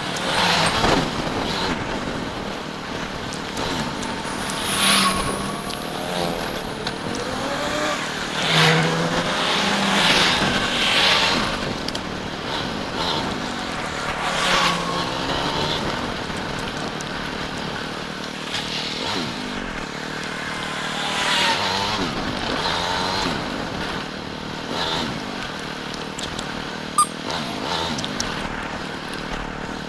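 Motorcycle engine running under way, its pitch rising and falling as the rider speeds up and eases off, over steady wind and road noise. Two sharp clicks near the end.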